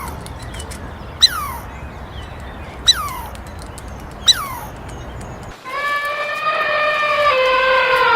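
Short dog yelps, each falling sharply in pitch, repeated about every second and a half over a low steady background. After a sudden change, a long held animal call drops a step in pitch near the end.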